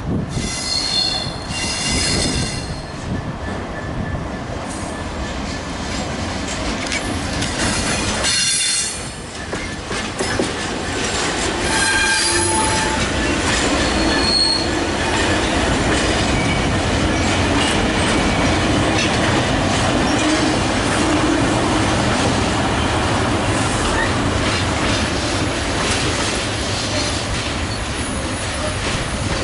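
Freight train passing at close range, its wagon wheels squealing in high thin tones and clattering over the rail joints over a continuous rumble.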